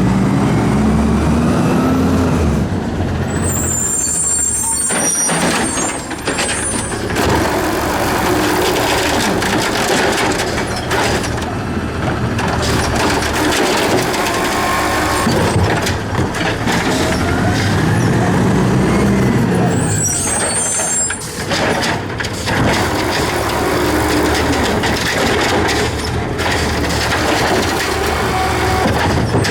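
Garbage truck's diesel engine running, revving up and back down twice, about seventeen seconds apart, each rev followed by a short high hiss or squeal.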